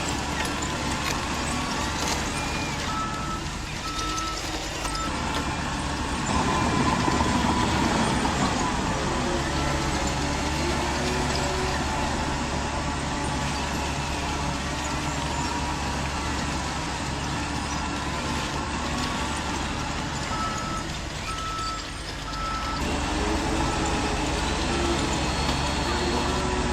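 Radio-controlled model construction trucks and dozer running, a steady mechanical hum, with a truck's reversing beeper sounding in two short runs, about three seconds in and again near twenty seconds.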